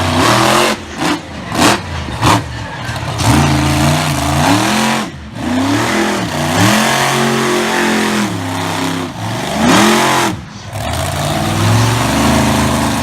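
Monster truck engine revving hard, its pitch swinging up and down again and again: three quick throttle blips in the first few seconds, then long rising and falling revs with brief lifts off the throttle around the middle and near the end.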